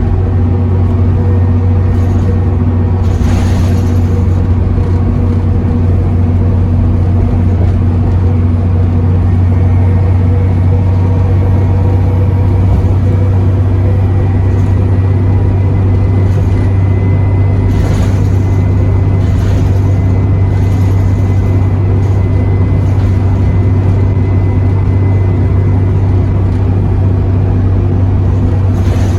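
Bus engine and drivetrain droning steadily at cruising speed, heard from inside the passenger cabin. A faint high turbo whistle comes in about ten seconds in and holds for a while, and a few brief rattles sound now and then.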